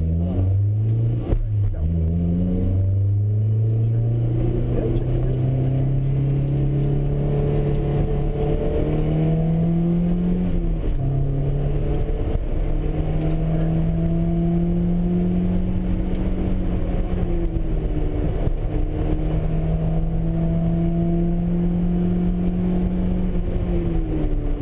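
Honda S2000 (AP1) 2.0-litre F20C four-cylinder engine heard from inside the cabin, pulling under throttle around a race track. Its pitch climbs and holds through long stretches, then drops at gear changes or lifts a few times, most clearly near the middle and again near the end.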